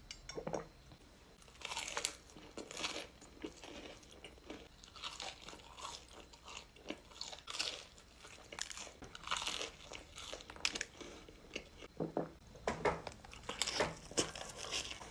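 Close-miked eating: crunchy bites and chewing, heard as irregular short crackles.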